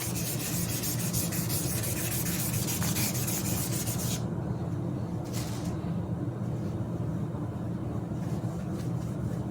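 Fine 1200-grit sandpaper being rubbed back and forth over a bicycle frame's clear coat in quick, even strokes, wet sanding it down to a dull finish. The sanding stops abruptly about four seconds in, with one more short stroke a second later, over a steady low hum.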